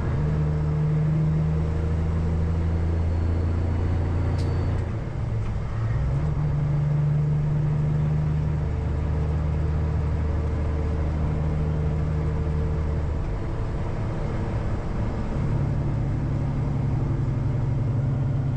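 Cummins ISX diesel engine of a 2007 Peterbilt 379 running while the truck drives down the highway: a steady low drone whose note breaks and changes about five seconds in and again around fourteen seconds in.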